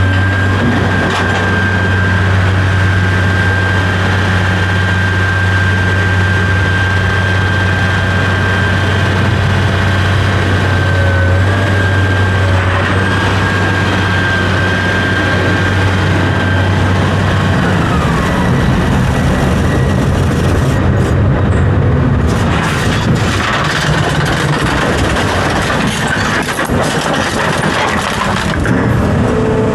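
A heavy engine running steadily with a thin whine above it. About 18 seconds in its steady hum stops and the sound turns rougher and noisier.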